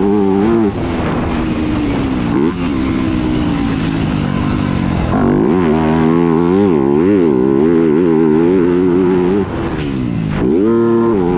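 Yamaha YZ250F four-stroke single-cylinder motocross bike being ridden, its engine revving up and down as the throttle is worked on and off. The revs rise and fall quickly through the middle, drop off sharply near the end, then climb again.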